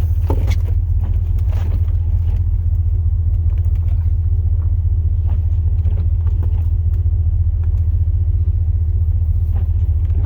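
Steady low rumble of a Chevrolet Silverado's 8.1-litre big-block V8, heard from inside the cab, with faint rustles and clicks over it.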